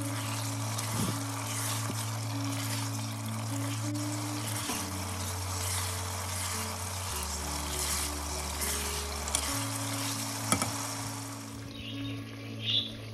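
Chicken pieces and spice masala sizzling in hot oil in a pot, fried down (bhunai) after the powdered spices go in, while being stirred with a silicone spatula. The sizzle thins out near the end. Background music plays underneath.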